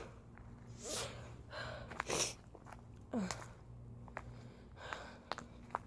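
A person sniffling and taking sharp breaths while close to tears, with a short falling vocal sound about three seconds in and a few faint clicks.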